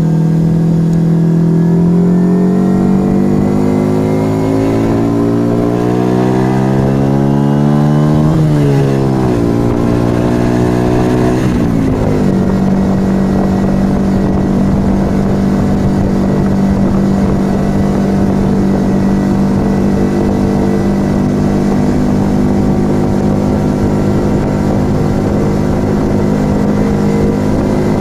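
Yamaha XV125 Virago's small V-twin engine through a Turbo Kit aftermarket exhaust, heard from the rider's seat. For about eight seconds the engine pulls with rising pitch. The note drops sharply twice, like upshifts, and then the engine holds a steady cruising note. A low wind rumble runs underneath.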